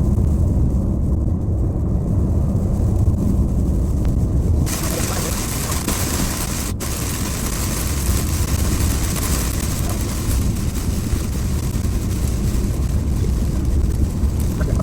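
Steady low road rumble of a car driving at speed, heard from inside. A few seconds in, a loud hiss of wind or tyre noise joins suddenly and holds.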